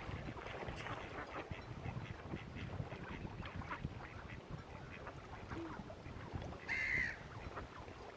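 Mallard ducks quacking, with one louder, higher call about seven seconds in, over a low rumble.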